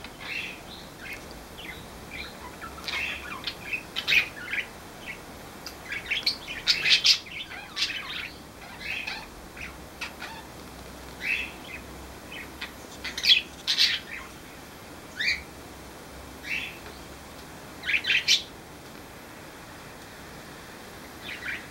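Pet parakeets and cockatiels chirping in short, irregular calls, with a few louder clusters of chirps.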